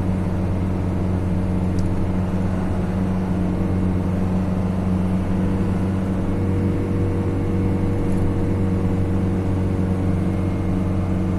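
Steady engine drone and road noise from inside a moving vehicle cruising at an even speed.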